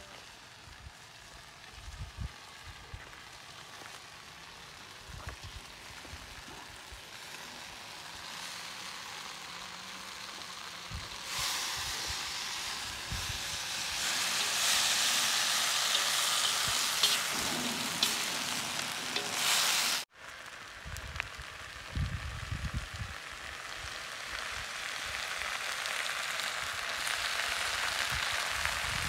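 Meat frying in a metal wok over a charcoal fire and being stirred with a wooden spatula, a steady sizzle. The sizzle is faint at first, grows much louder about eleven seconds in, breaks off for a moment about twenty seconds in, then builds again.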